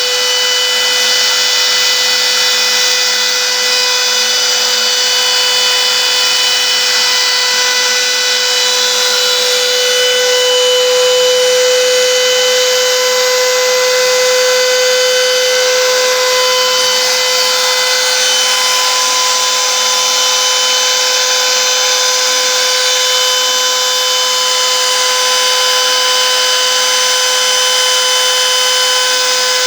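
CNC router spindle engraving marble: a steady high whine with an even hiss of the cutting bit on stone.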